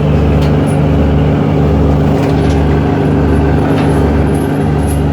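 Boat engine running steadily: a constant low drone with a deep throb that pulses about one and a half times a second.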